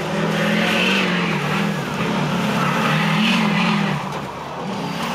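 Diesel pickup truck engine running hard under load while pulling a weight-transfer sled, its pitch held high and wavering slightly, then easing off about four seconds in.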